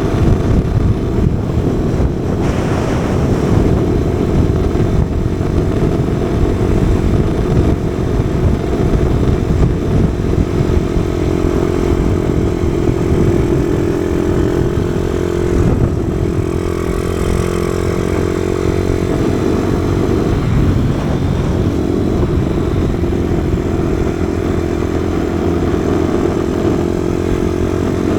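Kawasaki KSR110's small single-cylinder four-stroke engine running steadily under way, its pitch rising and falling a little with the throttle, under a constant rumble of wind buffeting the microphone.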